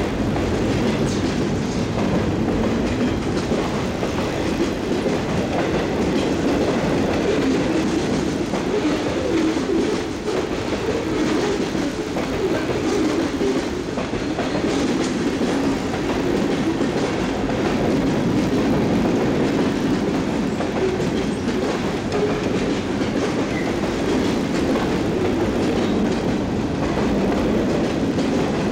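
CSX freight train's cars rolling steadily past, their wheels clacking over the rail joints.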